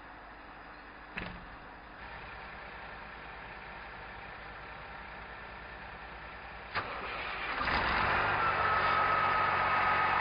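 Peterbilt 379 semi truck's diesel engine being started: a click about a second in, another click near seven seconds, then the engine catches and settles into a steady idle with a whine over it.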